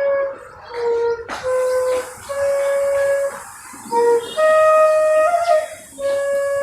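Flute playing a slow tune of about seven steady held notes, each lasting half a second to a second, with short breaths between them.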